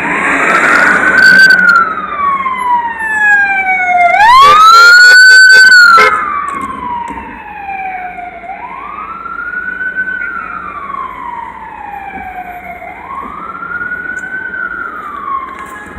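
Emergency vehicle siren in a slow wail: each cycle rises quickly, then sinks slowly, and repeats about every four and a half seconds. It is loudest and harshest around four to six seconds in.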